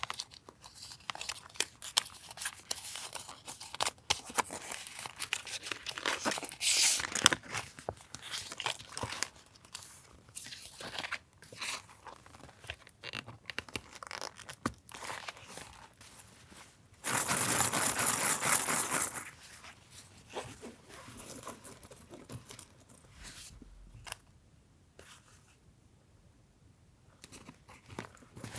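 Paper and collage materials being handled: crinkling, rustling and small taps and clicks, with a louder continuous rasp of paper lasting about two seconds past the middle. It grows quieter near the end.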